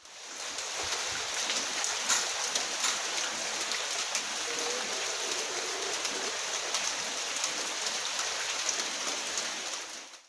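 Heavy rain falling: a dense, steady hiss with many sharp drop ticks throughout. It fades up at the start and drops away suddenly at the end.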